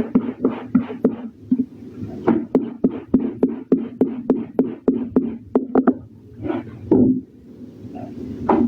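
Clothes being washed by hand: quick rhythmic scrubbing strokes of wet fabric, about four a second, thinning out to a few separate strokes after about six seconds.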